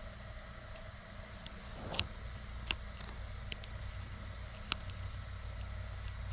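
Scattered light clicks and taps from small parts being handled, over a steady low hum.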